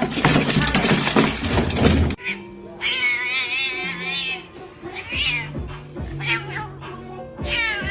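A cat meowing: a long wavering yowl, then three short meows, over background music. It opens with about two seconds of loud, noisy sound.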